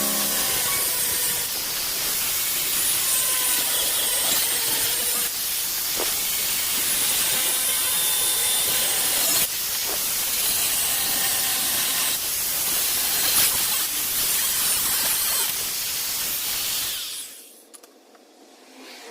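Steady loud hissing noise, cutting off abruptly near the end.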